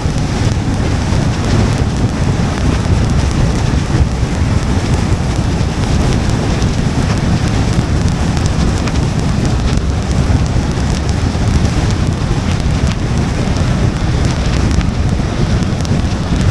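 Steady noise of a car driving in the rain: a low rumble of tyres on the wet road under a hiss of rain and spray, with a few faint ticks of drops.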